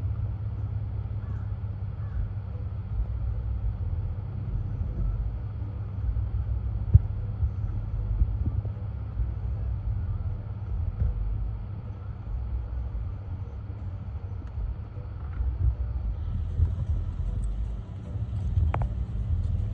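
A car driving, its steady low road and engine rumble running throughout, with one sharp knock about seven seconds in.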